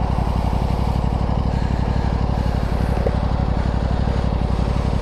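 Aprilia Tuono 660's parallel-twin engine running steadily.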